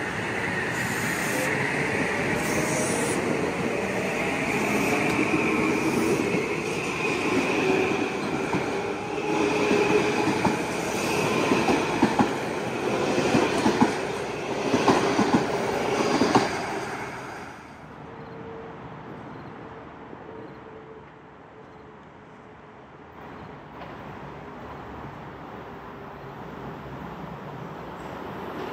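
Metro-North M8 electric multiple-unit train moving along the platform: a steady whine over the rumble of its wheels, with a run of quick wheel clicks over rail joints past the middle. About two-thirds through, the sound cuts to a quieter, steady rumble of another train approaching.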